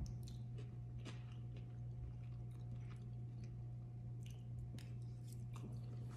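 Close-up chewing of a mouthful of rice bowl, with small wet mouth clicks and smacks scattered throughout. Under it runs a steady low electrical hum.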